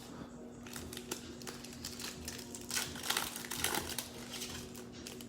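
A trading-card pack's wrapper crinkling as it is torn open and handled. The crackling is irregular and loudest around the middle.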